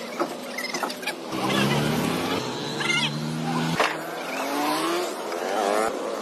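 A vehicle engine running, with a low pitched hum that starts about a second in and cuts off abruptly just before the middle. A rising, wavering engine note follows near the end, with a few sharp clicks.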